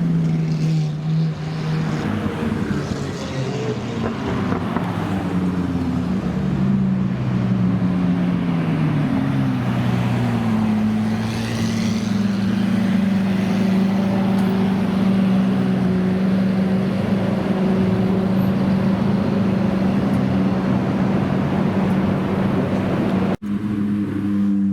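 Supercar engines running loudly. Their pitch steps down over the first ten seconds or so, then holds a steady drone, and the sound briefly cuts out near the end.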